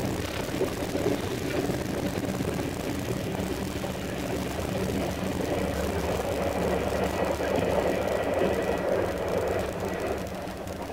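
Steady running noise of a KTX high-speed train at speed, heard inside the passenger cabin: a constant low rumble with a hum under it, swelling a little about two-thirds through and easing near the end.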